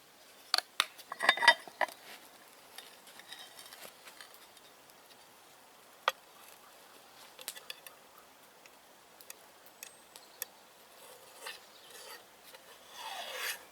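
Metal camp cookware being handled: a quick cluster of clinks and knocks about a second in, scattered single clicks after, and a short scrape near the end.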